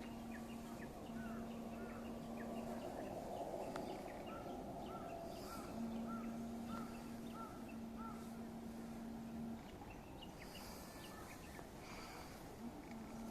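Wild birds calling in woodland: scattered high chirps and a run of about eight short repeated notes, over a steady low drone that breaks off and resumes.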